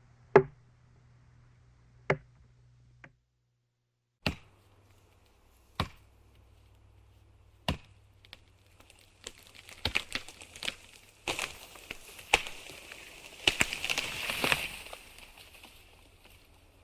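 A series of single sharp knocks or chops, one every one to two seconds, followed from about nine seconds in by a busier run of clicks and knocks over a hiss.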